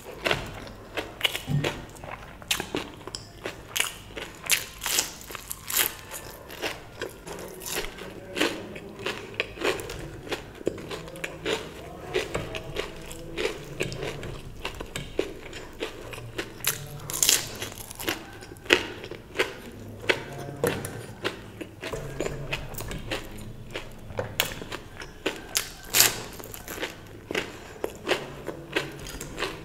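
Close-miked eating sounds: a person biting and chewing food, with a dense run of short mouth clicks and crunches, a few a second.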